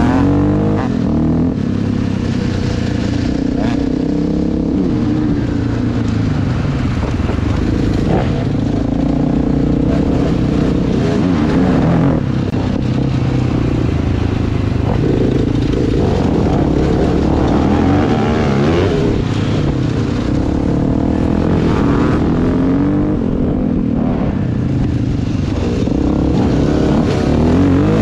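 Dirt bike engine running under way, its pitch repeatedly rising and falling as the throttle opens and closes.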